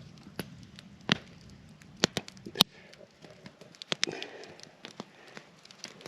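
Campfire crackling, with irregular sharp pops, a few of them loud.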